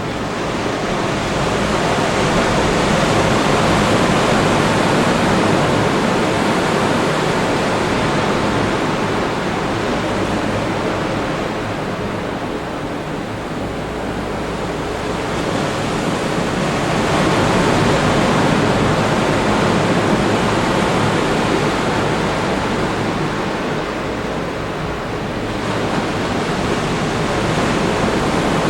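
Ocean surf breaking on a beach: a steady rush of waves that swells and eases in slow surges, dipping a little about halfway through and again near the end before building back.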